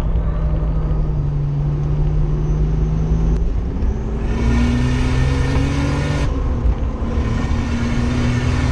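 Nissan R31 Skyline engine heard from inside the cabin, holding a steady note through a corner, then accelerating hard from about three and a half seconds in with its pitch climbing. An upshift about six seconds in briefly drops the note before it climbs again.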